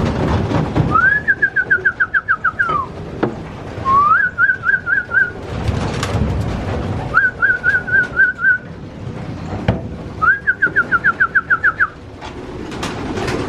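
Whistling four times to call racing pigeons in: each call is a short rising note that breaks into a rapid warble. A few sharp clicks and a low rustle of the birds sound underneath.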